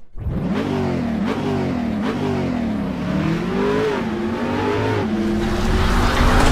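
Superbike engine revving in quick blips, its pitch rising and dropping back several times, then one longer climb and a steadier, higher-held note near the end.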